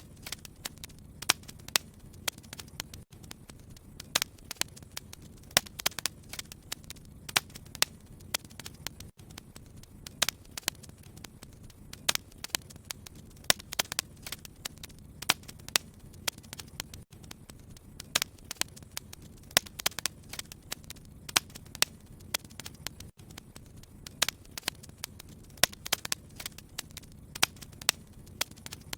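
Wood fire crackling in a fireplace: irregular sharp snaps, several a second, over a low steady hum.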